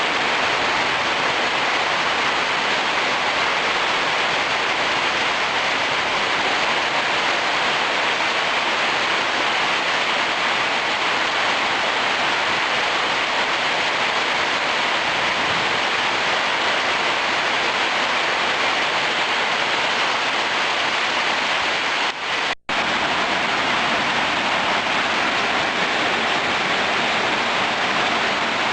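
Heavy rain pouring down in a steady, loud hiss. It cuts out for a split second about 22 seconds in.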